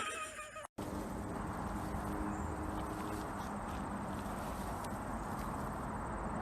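Steady low background noise with no distinct events, beginning after a brief dropout just under a second in.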